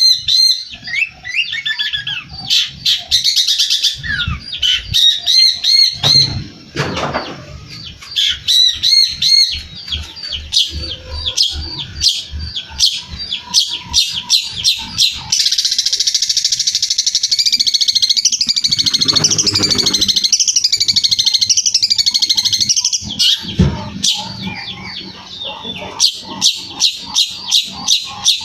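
Long-tailed shrike in full song: a fast, ever-changing stream of chirps, trills and whistles strung together from mimicked calls of other birds. Midway it runs into a long unbroken chatter, and near the end it gives a string of sharp repeated notes.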